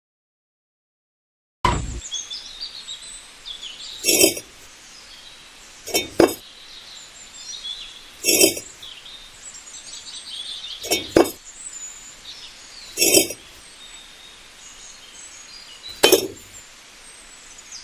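A sharp clink with a short ring, repeated about every two to three seconds and sometimes doubled, over faint chirping.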